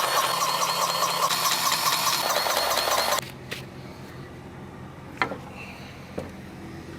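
A loud whirring machine with a fast, even pulse runs for about three seconds and cuts off suddenly. It leaves a low steady hum, with two sharp clicks near the end.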